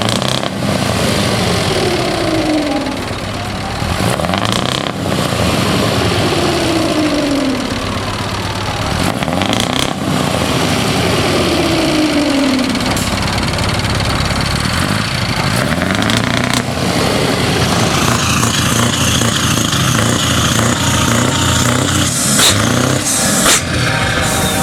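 Tuned diesel trucks with loud exhaust pipes being revved again and again, each rev falling away in pitch, about every four to five seconds.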